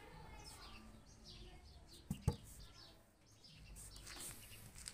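Small birds chirping, many short repeated chirps. Two sharp knocks come close together a little after two seconds in.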